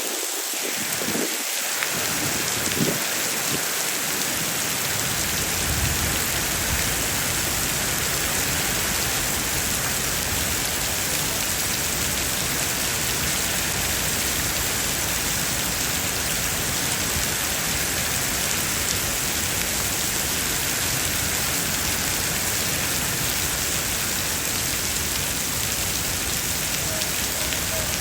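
Heavy rain falling steadily, a dense, even hiss of rain on the surfaces around.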